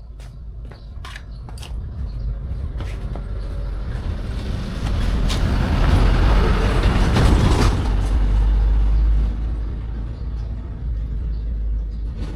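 Low engine rumble of a passing motor vehicle, swelling to its loudest about six to nine seconds in and then fading.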